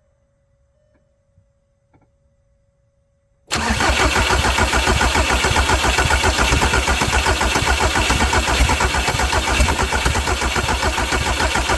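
A Volkswagen Jetta TDI diesel engine being cranked by its starter, a loud even pulsing that starts suddenly about three and a half seconds in. It turns over without catching: the fuel system was drained and is full of air after a fuel filter change.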